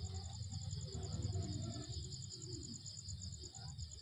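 Night-time insects trilling: a steady, high-pitched pulsing trill that repeats rapidly, over a low rumble.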